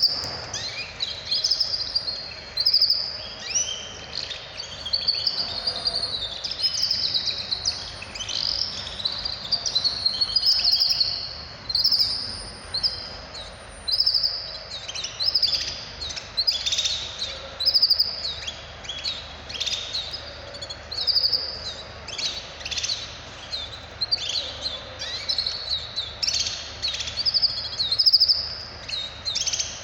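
Small caged songbirds chirping and singing in quick, high, overlapping phrases, without a break.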